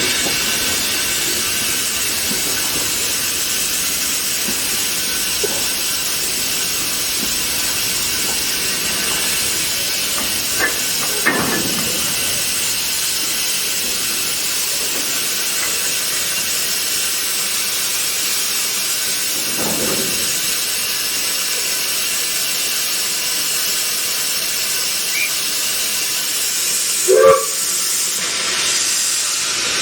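Steam locomotive letting off steam: a steady, continuous hiss. A few brief knocks break through it, the loudest near the end.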